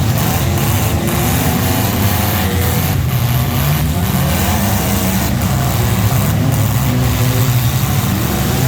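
A vehicle engine running loudly, its pitch holding fairly steady with slight wavering.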